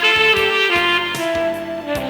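Tenor saxophone playing the melody of a slow Korean ballad in held notes that change pitch a few times, over a backing track with a steady drum beat.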